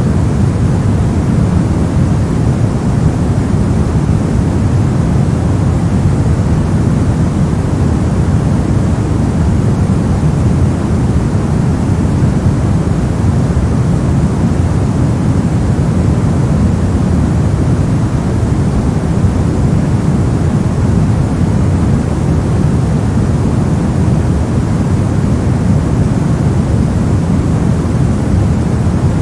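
Steady, unchanging white noise for sleep, deep in tone, with most of its weight in the low end rather than a bright hiss.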